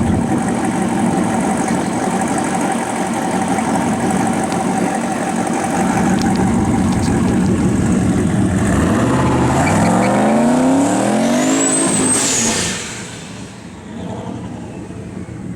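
Turbocharged LS-series V8 of a 1963 Chevy II Nova running with a steady rumble, then accelerating hard about eight seconds in. Its note climbs for about four seconds, with a high whistle rising over it, then falls away and goes quieter.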